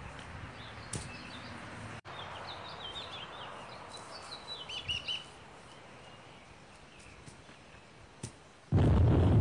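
Outdoor background with small birds chirping several times in the middle, and a faint click or two. Near the end a sudden loud, deep rumbling burst cuts in and drowns everything.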